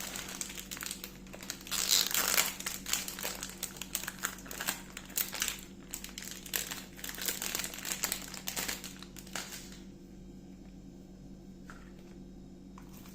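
Crinkling and rustling, like plastic or paper being handled, for about ten seconds, then it stops, leaving only a steady low hum and a couple of faint clicks.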